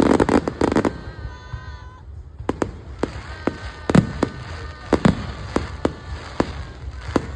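Fireworks going off: a dense crackle for about the first second, then a string of separate sharp bangs, about a dozen, with thin steady tones sounding between them.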